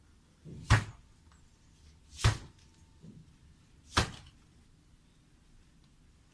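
Three heavy, sharp blows of a tool striking, evenly spaced about a second and a half apart.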